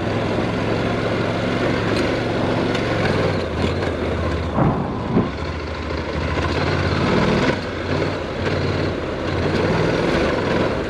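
Honda NC700X parallel-twin engine running at low speed off-road, its note dropping about three seconds in and picking up again past the middle, over wind and tyre noise on loose dirt. A few brief knocks near the middle.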